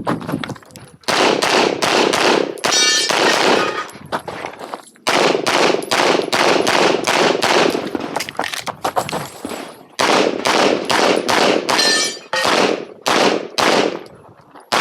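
Handgun firing rapidly through a competition stage: quick strings of shots, several a second, broken by short pauses about a second in, around four to five seconds in, and around ten seconds in.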